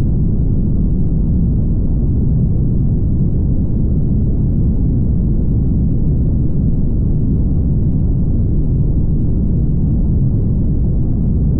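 Steady low rumble of a car driving on the highway: road and tyre noise with engine hum, unchanging throughout.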